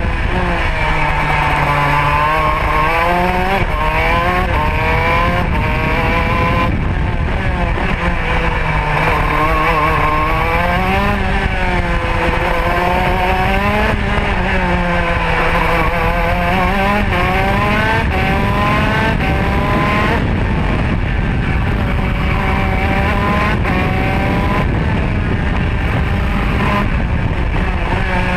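Two-stroke Modena kart engine at racing speed, its revs climbing and dropping again and again as the kart accelerates out of corners and brakes into the next, over a constant low rush of noise.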